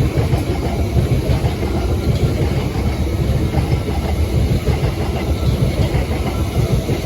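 A pair of Southeastern Class 377 Electrostar electric multiple units running past, with a loud, steady, deep rumble of wheels on rail.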